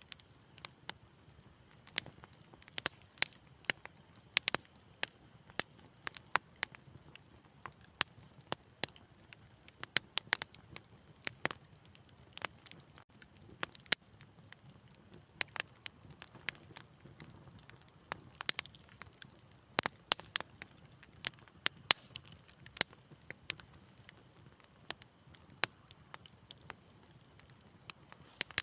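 Wood fire crackling: irregular sharp pops and snaps, several a second, over a soft low hiss of flame.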